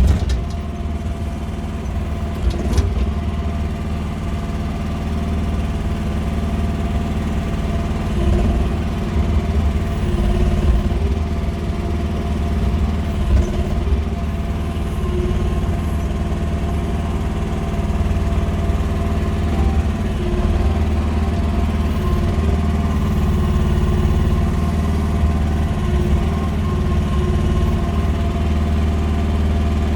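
Engine of a QH13R mini excavator running steadily as it works, with small swells in loudness as the load changes. A sharp knock sounds right at the start.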